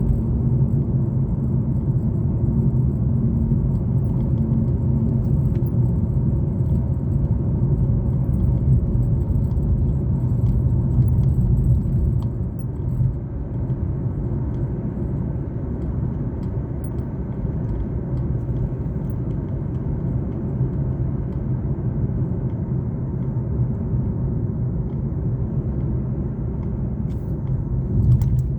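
Car driving along a highway: a steady low rumble of engine and tyres on the road, easing slightly about halfway through.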